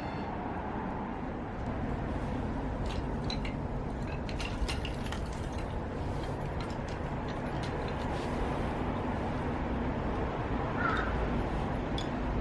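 Wood fire crackling: scattered sharp pops and snaps over a steady low background rumble.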